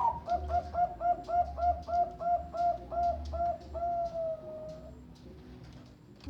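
Bangkok-line zebra dove (perkutut) singing its cooing song: a run of about a dozen quick, evenly spaced short notes, about four a second, then one long drawn-out note ending a little under five seconds in.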